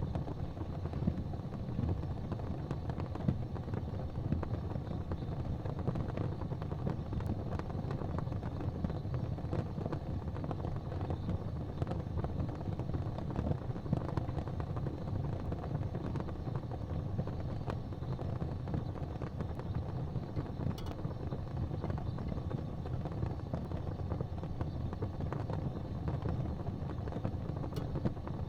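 Wood fire burning in a fireplace: a steady low rumble with a few faint, sparse crackles.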